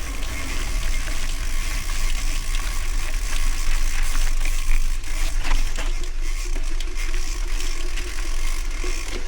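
Gravel bike riding: wind rumbling on the microphone over tyre noise, with the bike rattling and clicking over rough ground.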